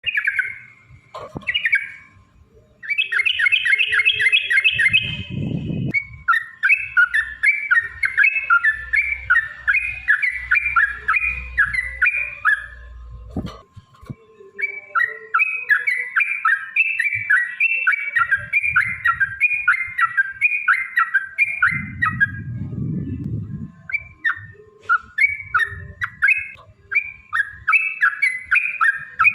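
Yellow-vented bulbul singing long rapid runs of bubbly chirps in four stretches, broken by short pauses. A low rumble sounds twice, about five seconds in and again near the end.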